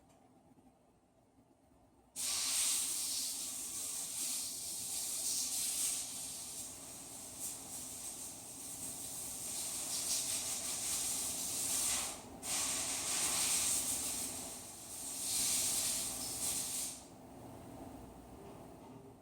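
Compressed-air blow gun hissing as it blows dust out of the inside of a Bosch hammer drill. It starts suddenly about two seconds in and runs in long blasts, with a brief break about twelve seconds in, then goes weaker near the end.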